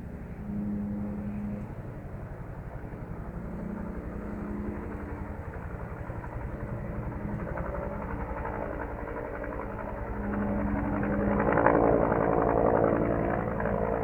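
Helicopter in flight, its rotor beating in a fast, even pulse over an engine hum, growing louder about ten seconds in.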